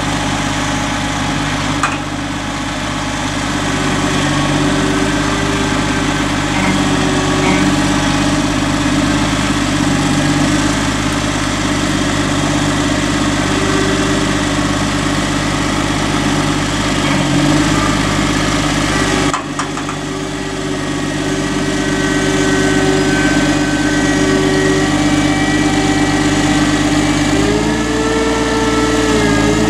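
Diesel engine of a Caterpillar trail groomer running steadily at idle, its pitch stepping up near the end as the engine speeds up.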